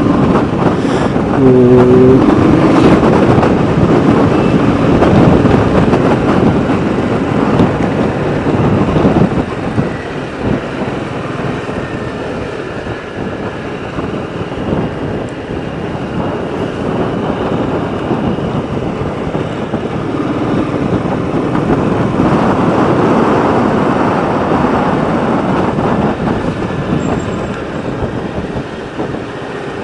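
Sound of riding a motorcycle on the road: a steady rush of wind and road noise over the engine, with passing traffic and a brief pitched tone about two seconds in.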